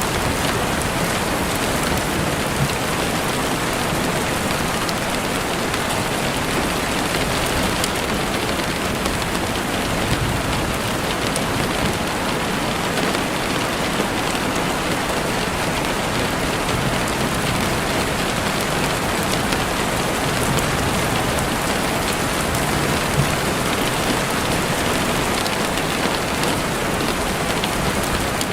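Heavy rain pattering steadily on a window, a dense even hiss with scattered individual drop ticks.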